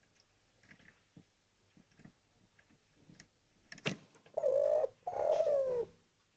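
Spotted dove (derkuku) cooing: two coo notes in quick succession, the second sliding down in pitch. A sharp click comes just before them, about four seconds in, with faint scattered ticks earlier.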